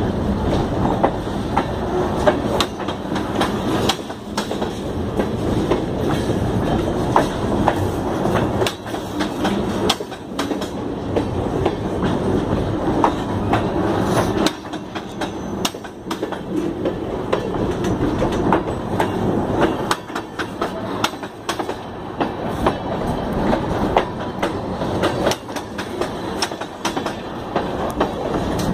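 Freight train rolling along the track: a steady rumble of wheels on rail with frequent sharp clacks as the wheels pass over rail joints.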